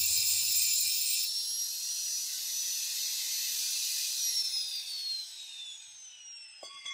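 A high-speed electric motor whines at a steady high pitch. About four seconds in it begins falling in pitch and fading as it spins down.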